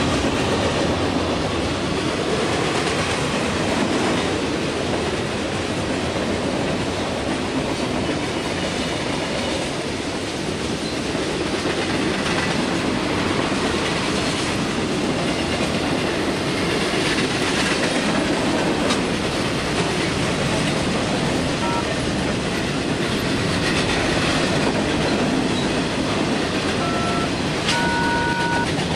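Freight cars (tank cars, covered hoppers and boxcars) rolling past close by: a steady rumble and clatter of steel wheels on the rails. A couple of brief high tones sound near the end.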